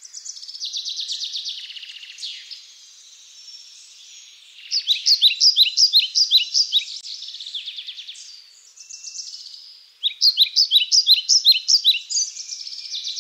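Songbirds singing: fast trills alternate with runs of sharp, downward-sliding notes about five a second, which are the loudest part and come twice, each run lasting about two seconds.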